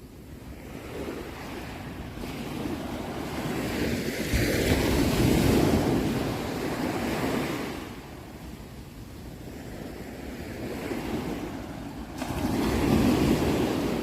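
Sea waves breaking and washing on the shore in slow surges: the sound builds to a loud wave about four seconds in, ebbs away around eight seconds, and another wave swells near the end.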